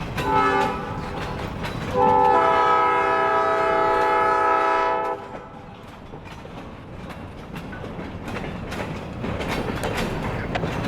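Escanaba & Lake Superior diesel locomotive's air horn sounding a short blast, then a long one of about three seconds, both a chord of several notes. Under it and after it, the rumble and clatter of the train running on the rails.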